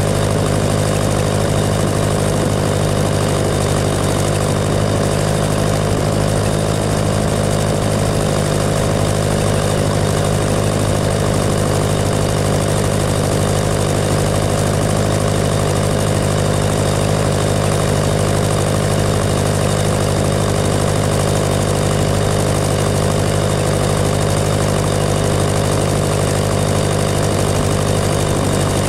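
Tractor engine running at a constant, unchanging speed with a steady drone.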